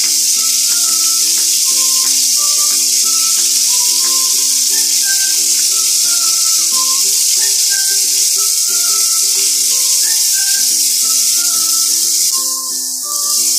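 Ginger-garlic-onion paste sizzling hard in hot ghee in a wok, a loud, even hiss that eases briefly near the end, under a background music melody.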